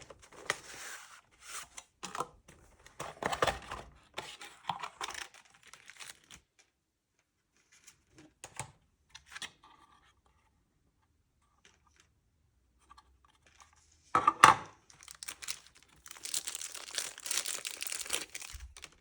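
Product packaging being opened by hand: tearing and crinkling in irregular bursts, a sharp knock about two-thirds of the way through, then a longer stretch of tearing near the end.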